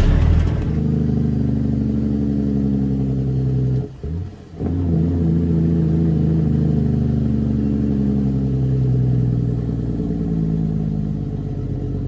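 Caterpillar C13 inline-six diesel in a Kenworth W900B dump truck, running under load as the truck pulls. The engine sound breaks off briefly about four seconds in and then pulls steadily again.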